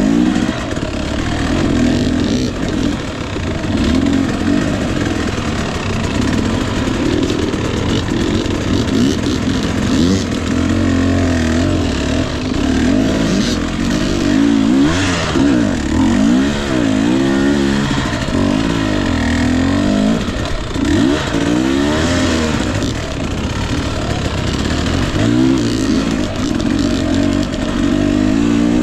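Husqvarna TE 250i fuel-injected two-stroke dirt bike engine revving up and down over and over as it is ridden through rough terrain, the pitch rising and falling every second or two.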